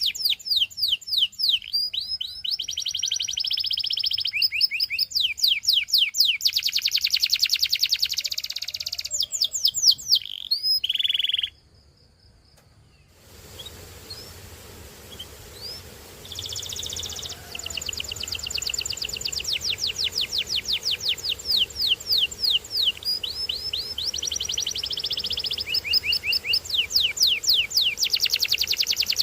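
Domestic canary singing: fast trills of repeated down-sweeping notes and steady rolls, one phrase running into the next. The song breaks off for a few seconds about twelve seconds in, then picks up again.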